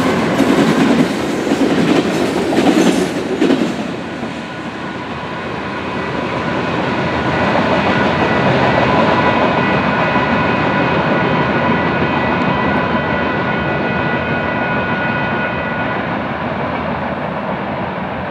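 Freight train passing: a Union Pacific diesel locomotive goes by with its engine running and wheels clattering, then the tank cars and boxcars roll away with wheels clicking over the rail joints. From about four seconds in, a steady high squeal rings over the rolling noise.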